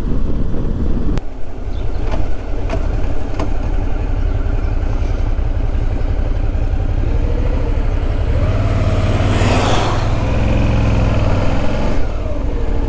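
Motorcycle riding along, a steady engine rumble mixed with wind rush on the microphone. About eight seconds in, a louder rushing swell builds and fades, while the engine pitch wavers up and down.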